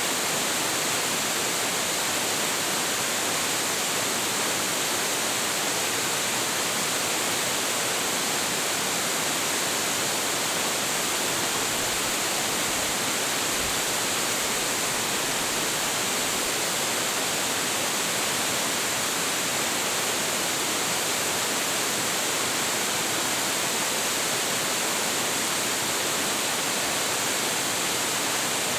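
Large waterfall, a 25.7 m drop, crashing water in a steady, dense hiss with no breaks or changes.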